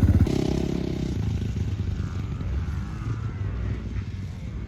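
Dirt bike engine revving hard right at the start, then settling into a steady low run. A fainter engine note rises and falls in the middle.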